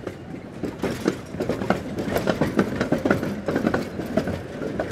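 Tram running on its rails, the wheels clacking and knocking irregularly over the track.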